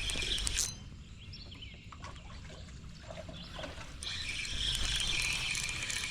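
Small birds chirping over the sound of lake water, with a short louder rush of noise at the start and a denser hiss from about four seconds in.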